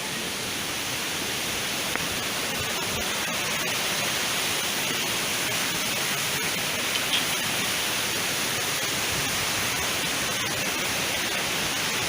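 Steady rush of flowing water, an even hiss with no distinct events, growing slightly louder over the first few seconds.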